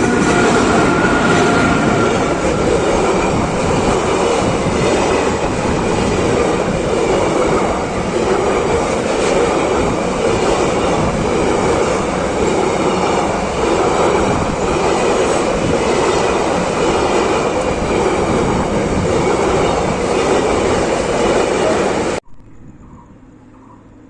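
Indian Railways train running past: a loud, steady rumble of wheels on track with a repeating clickety-clack over the rail joints. It cuts off abruptly about two seconds before the end, giving way to a much quieter sound.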